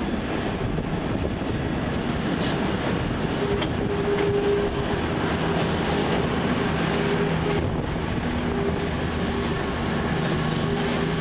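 Freight train of empty log wagons rolling slowly over the pointwork, wheels rumbling and clattering steadily, with a diesel engine note underneath. A thin, high wheel squeal comes in near the end as a passenger train runs in on a nearer track.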